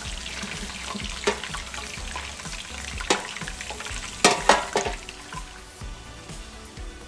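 Chicken drumsticks sizzling in deep frying oil as a steady hiss, with a few sharp clicks, the loudest cluster about four and a half seconds in. The hiss eases after about five seconds, over quiet background music.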